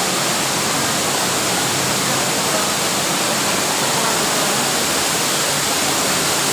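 Waterfall pouring steadily: a dense, even rush of falling water heard close by from the cave behind it.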